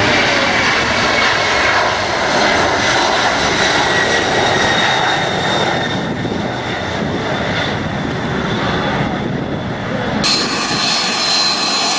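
Airliner engines running loud and steady, with a high whine over the roar; the sound changes abruptly about ten seconds in.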